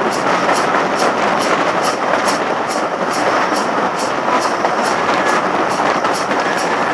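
Steam-hauled passenger train running at speed, heard from an open coach window: a steady rush of wheel and wind noise with an even beat of short ticks about three to four times a second.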